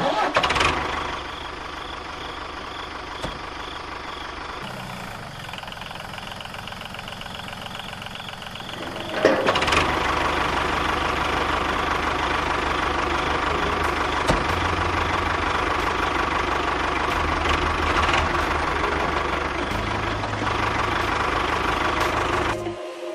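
Tractor engine running steadily with an even low chug, growing louder about nine seconds in and cutting off suddenly just before the end.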